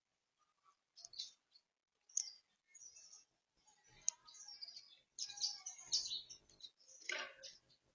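Small birds chirping in short, scattered bursts that come more thickly from about five seconds in.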